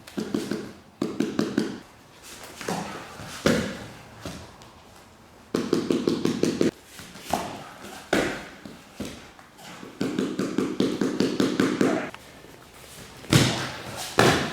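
Rapid runs of hand taps, about ten a second, from a training partner tapping out under an arm lock, with single thumps of bodies on the mat in between.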